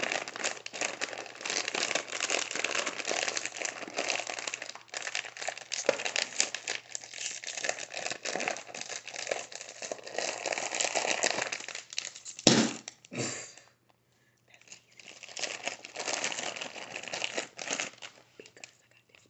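Close-miked crinkling and crackling from eating and handling a seafood boil: a dense run of small clicks and crackles, with one heavier knock about twelve seconds in and a brief pause shortly after.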